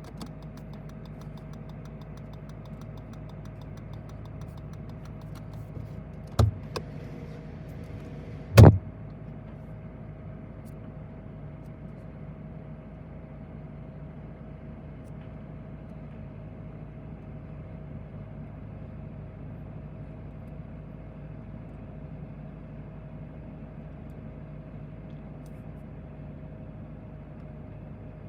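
Steady low hum of a switched-on car heard from inside the cabin, with two sharp clicks about six and eight and a half seconds in.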